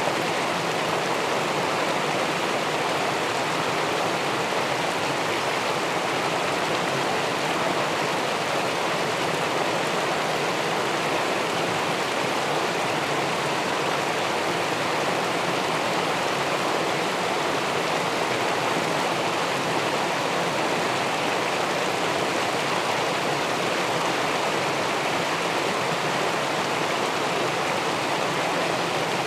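River water spilling over a weir into the pool below: a steady, even rushing with no breaks or changes.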